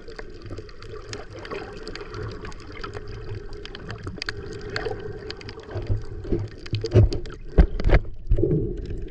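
Water sloshing and gurgling close to the microphone, with many scattered clicks. Louder knocks and splashes come in the last few seconds.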